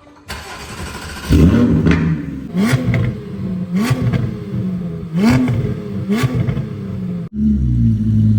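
Porsche 718 Cayman GT4's 4.0-litre flat-six running through a titanium valved axle-back exhaust, revved in about five short blips, each rising and falling in pitch. The sound breaks off abruptly near the end and resumes.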